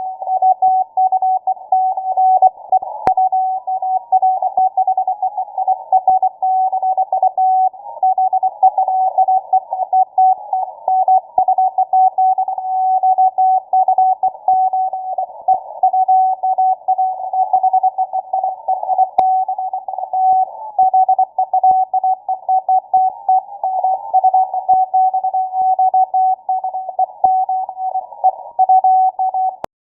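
Morse code (CW) signal received on a shortwave software-defined radio: a single beeping tone keyed rapidly on and off, set in hiss from a narrow receiver filter. It cuts off suddenly near the end.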